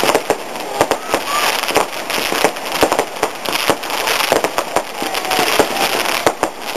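Fireworks going off in rapid succession: many sharp bangs and crackles, several a second, over a steady hiss.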